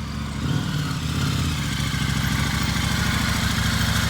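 Motorcycle engine idling with an even, pulsing beat, given a slight blip of throttle about half a second in before settling back to a steady idle.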